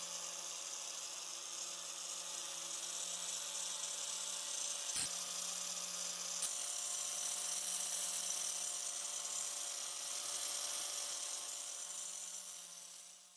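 A small electric power tool running steadily with a high hissing grind, as in rust removal on metal parts. There is a short click about five seconds in, and the sound fades out near the end.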